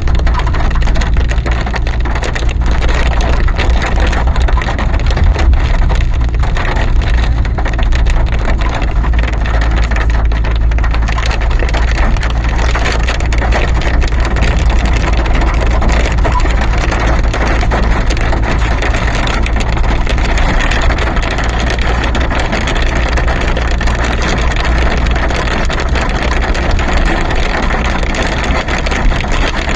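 Snowstorm wind blowing hard against the microphone: a loud, steady rushing with a deep rumble and dense crackling.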